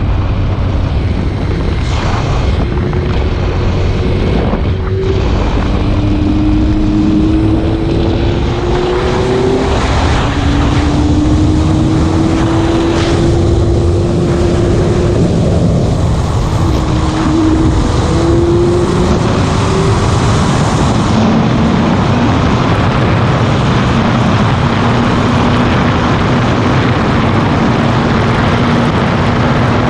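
Motorcycle engine running while riding, under heavy wind rush on the microphone. The engine note rises and falls with changes of speed through the first twenty seconds, then holds steady.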